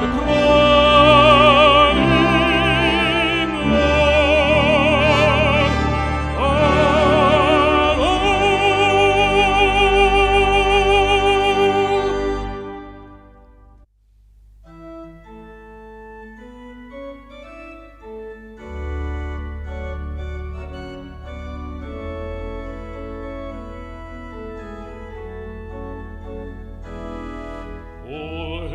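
Baritone voice singing a hymn with strong vibrato over a brass ensemble. The sung phrase ends on a long held note that fades out about halfway through. The brass then plays a softer interlude of held chords.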